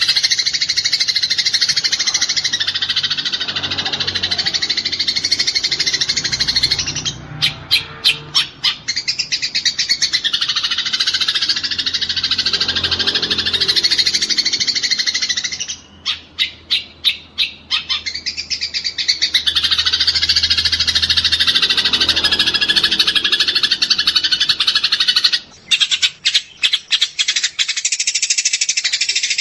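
Eurasian tree sparrows chirping in a fast, dense, overlapping chatter, the rapid calling of sparrows fighting. Three times the chatter breaks into a run of separate sharp chirps before the dense calling resumes.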